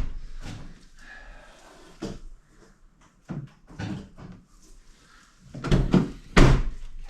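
Pickup truck cab door being worked, with scattered clicks and knocks, then a loud clunk and thump about six seconds in as the door is shut.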